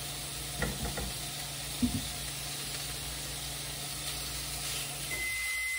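Chicken pieces sizzling in hot oil in a frying pan, turned with tongs, with a couple of light clicks of the tongs against the pan. Near the end a microwave's low hum stops and it gives one long beep.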